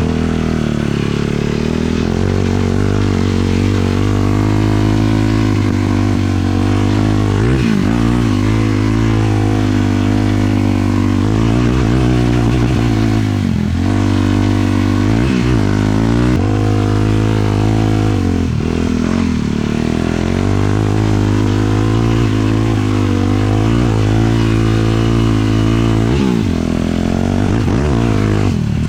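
450cc sport quad's single-cylinder four-stroke engine running under way, its revs falling and climbing again several times through the ride.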